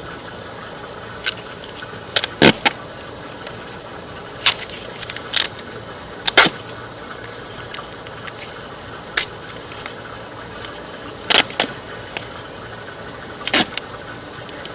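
Irregular sharp clicks and clacks, about nine of them at uneven intervals, from the sewer inspection camera's push cable and reel as it is fed into the drain line, over a steady background hum.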